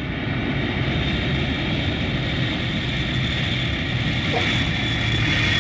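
Passenger jet airliner's steady noise, the even roar of engines and airflow with a low hum, heard from inside the cabin.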